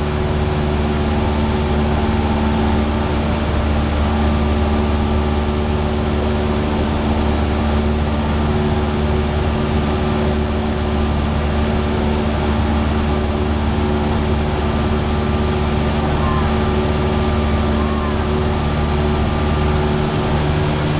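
Cessna 172R's four-cylinder Lycoming piston engine and propeller droning steadily in flight, heard from inside the cabin.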